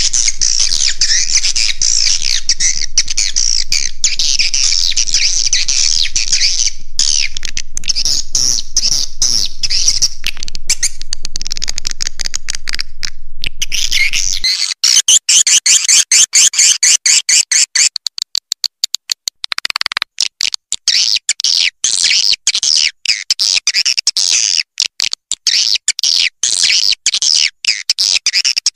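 Swiftlets chattering and twittering densely and at a high pitch, played as a recorded roosting lure call for swiftlet houses. About halfway through, a low hum underneath drops out and the calls turn choppy, with many short gaps.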